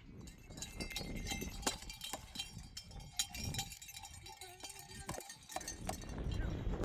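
Livestock bells clanking irregularly, with many sharp knocks and short ringing tones at several pitches.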